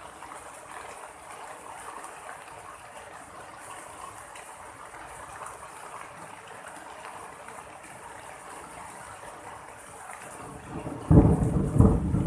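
Steady rain falling, then about eleven seconds in a sudden loud clap of thunder that goes on rumbling.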